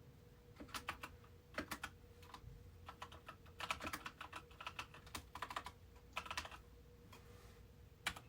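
Typing on a computer keyboard in short bursts of quick keystrokes separated by pauses, over a faint steady hum.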